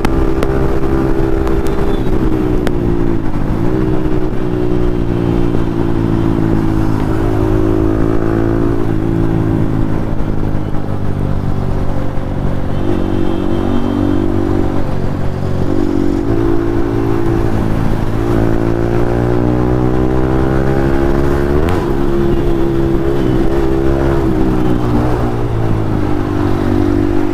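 Yamaha MT-15's 155 cc single-cylinder engine through an Akrapovic exhaust, running hard at road speed. Its pitch dips and climbs again several times as the rider shifts gear and rolls the throttle, with wind on the microphone.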